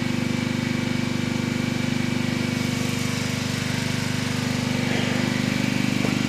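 Sawmill machinery running steadily, a continuous engine-like drone with a fast, even pulse.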